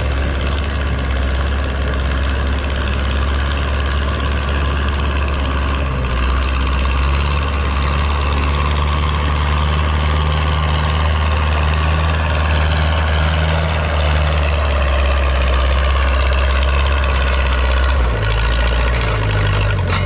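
Vintage Ford tractor's engine running steadily under load as it pulls the weight sled at walking pace. Its note changes near the end.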